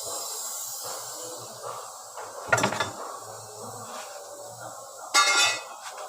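Two metallic clanks with a ringing tail, the second one about two and a half seconds after the first and louder, over a steady hiss.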